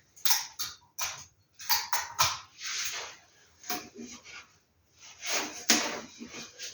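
Paper rustling and crinkling in quick, irregular bursts as vintage posters and their packaging are handled and unpacked.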